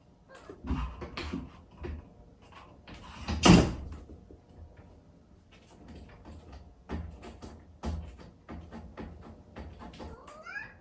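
Exotic shorthair cat meowing, crying to get to its owner, among a run of knocks and thumps, the loudest about three and a half seconds in; a rising meow comes near the end.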